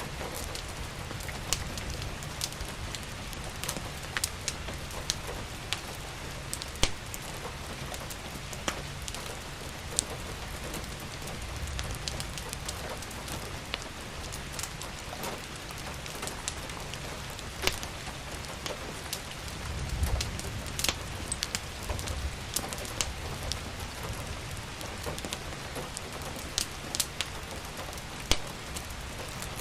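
Steady rain falling, mixed with the irregular sharp pops and crackles of a wood fire in a fireplace. A low rumble swells briefly about two-thirds of the way through.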